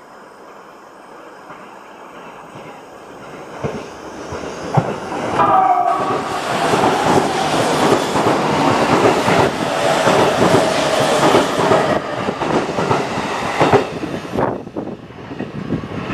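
A train passing close by, its wheels clacking rhythmically over the rail joints. The sound builds from about three seconds in and is loudest through the middle. A brief pitched tone comes just before the loudest part, and the train fades off near the end.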